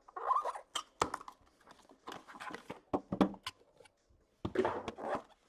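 Packaging of hockey card boxes being handled and opened: irregular rustling, tearing and scraping, with several sharp clicks and knocks.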